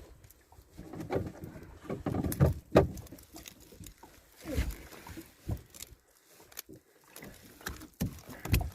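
A freshly caught fish thrashing, giving irregular thumps and slaps in short bursts with pauses between.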